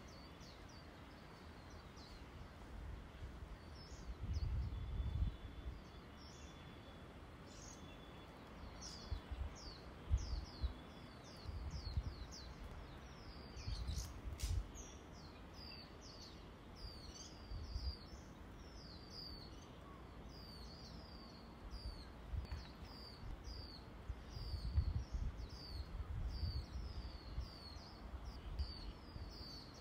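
Small birds chirping over and over, short quick downward chirps that come thicker and faster in the second half. Low rumbles of wind buffeting the microphone come and go and are the loudest sounds, about four seconds in, around ten and fourteen seconds, and again near the end.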